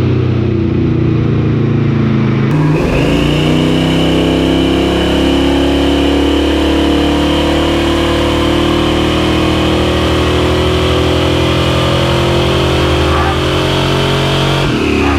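A truck's 5.3-litre V8 running loudly and steadily, its note rising slowly. The sound changes abruptly about two and a half seconds in, and a high whine comes in that lasts until near the end.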